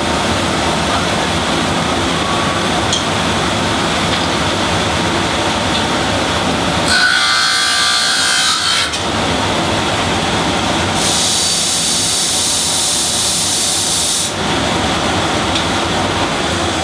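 Power tool running steadily, with a harsher, higher-pitched stretch about seven seconds in and a longer one from about eleven to fourteen seconds.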